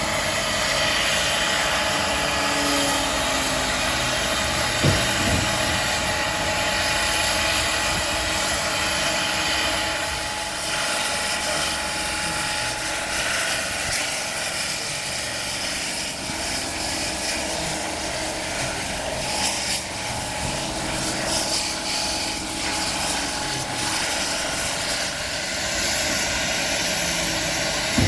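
Aircraft engine running steadily, a dense rushing noise with a faint steady whine in it.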